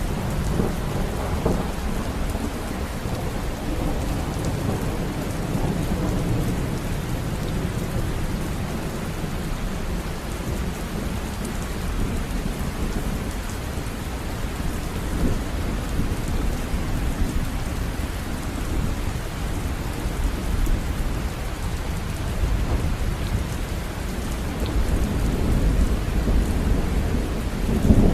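River water running, a steady rushing noise that swells briefly near the end.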